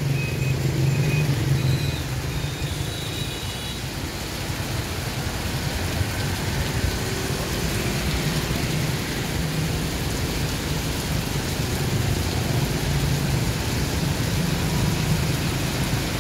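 Heavy rain falling steadily, over the low hum of road traffic.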